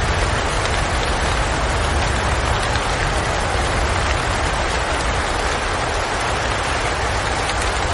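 Steady rain: an even hiss with a scatter of faint drop ticks and a low rumble underneath, unchanging throughout.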